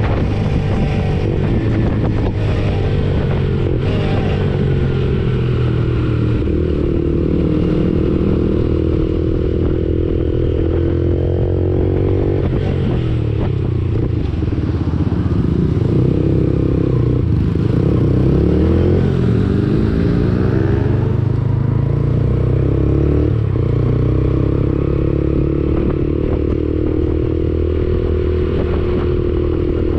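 Lexmoto Assault 125's single-cylinder 125cc engine running through an aftermarket Black Widow exhaust while riding, its pitch repeatedly rising and falling with the throttle, most changeably about midway through.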